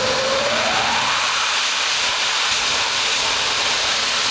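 Small jet engine mounted on a golf cart spooling up, its whine rising in pitch over the first second and a half, then running at a steady, loud roar at high thrust.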